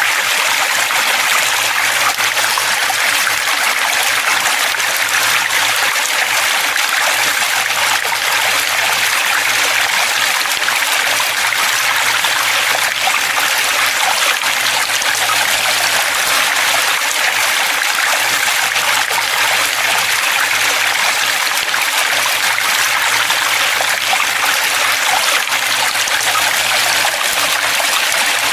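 Flowing water running steadily, a continuous even rush with no pauses or splashes.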